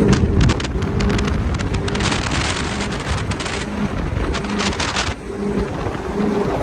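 Mini boat's engine running hard under way, with a rushing hiss of spray and wind that surges and fades in spells.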